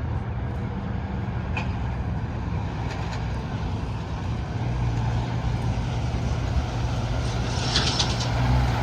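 Semi truck going by: steady diesel engine hum under tyre and road noise, getting louder a little past halfway, with a brief hiss near the end.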